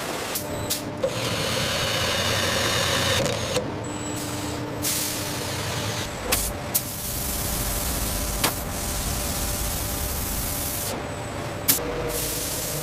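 Factory machinery running with a steady hum and long stretches of hissing, broken by several sharp metallic clanks, about half a dozen through the stretch.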